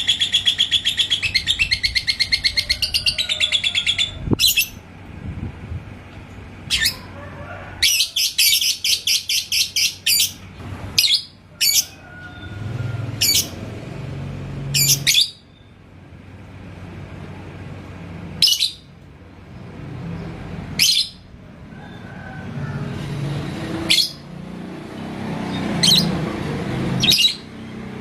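Lovebird ngekek: a long, rapid chattering trill that runs for about three seconds at the start and comes again for about two seconds a third of the way in, with single sharp high chirps every few seconds in between.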